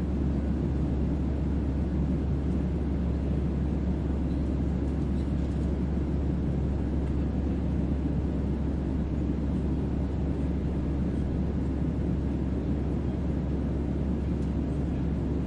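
Spaceship-interior sleep ambience: a steady onboard hum with deep bass and a broad white-noise hiss over it, unchanging throughout.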